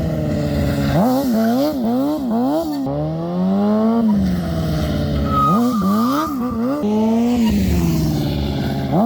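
Motorcycle engine revving hard during a rear-wheel slide, the throttle blipped up and down two or three times a second in bursts, with longer held revs between them. A short high tyre squeal comes a little past the middle.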